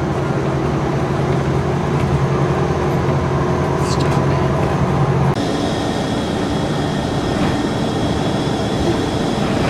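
Bus engine running with a steady low hum, heard from inside the bus; the hum changes abruptly about halfway through, and a thin high whine comes in.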